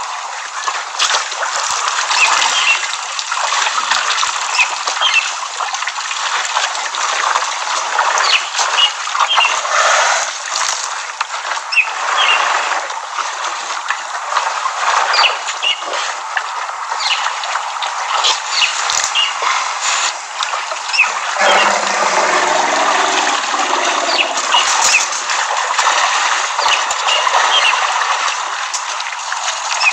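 Water splashing and sloshing at a waterhole as an elephant herd drinks and bathes, with small birds chirping throughout. A lower-pitched sound joins for a few seconds past the middle.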